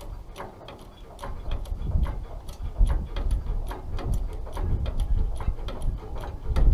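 Rapid metallic clicking, about three clicks a second, from the hand-worked lifting gear of a half-ton pickup truck crane as it raises a heavy axle, with a low rumble underneath.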